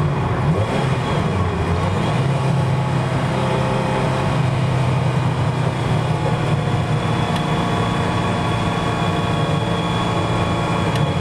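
Ferrari 328's mid-mounted V8 running under way on a race circuit, heard from inside the cabin. Its note shifts once in the first two seconds, then holds steady at moderate revs.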